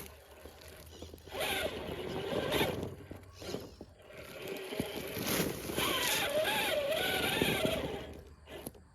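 Electric motor and geared drivetrain of a 1/6-scale RC rock crawler whining as it crawls. The pitch rises and falls with the throttle, loudest in the second half, with scattered knocks and scrapes.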